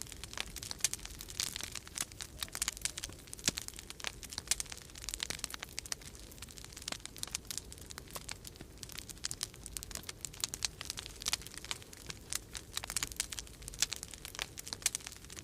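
Wood fire crackling in a fireplace, with a dense, irregular stream of sharp snaps and pops, over a low steady rumble of storm wind.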